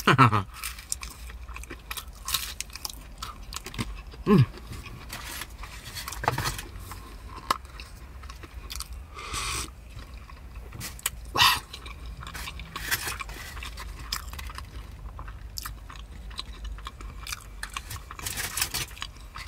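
A person chewing and crunching crisp fried pastry close to the microphone, most likely a beef samosa, with irregular crackling bites and wet mouth sounds.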